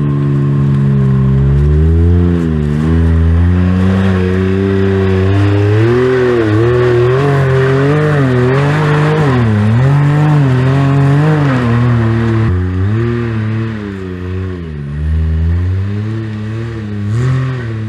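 Can-Am X3 Turbo side-by-side engine revving up and down over and over as it climbs a steep rocky hill, the pitch rising and falling with each stab of the throttle. The revving is most frantic in the middle and eases off and gets a little quieter in the last few seconds.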